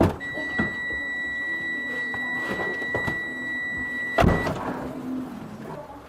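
A steady high-pitched electronic warning tone sounds for about four seconds among several clicks and knocks. A loud heavy thud about four seconds in comes just as the tone cuts off.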